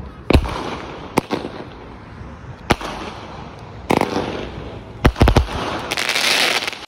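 Fireworks going off: sharp bangs at irregular intervals, some close together, with a dense crackling burst near the end.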